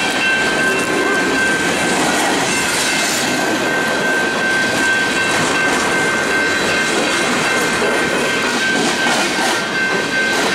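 Freight train hopper cars rolling steadily through a grade crossing, wheels clattering over the rails, with a steady high tone ringing over the rumble.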